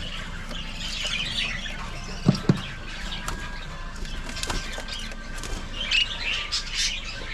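Many small parrots chirping and chattering together in an aviary, with two sharp knocks about two seconds in.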